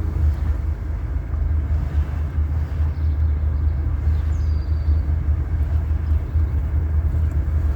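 Car driving at a steady pace, heard from inside the cabin: a continuous low engine and road rumble with tyre noise.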